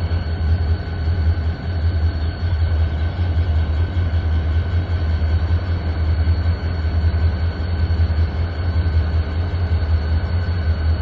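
BNSF diesel-electric locomotives running with a steady low engine rumble and a faint steady whine above it.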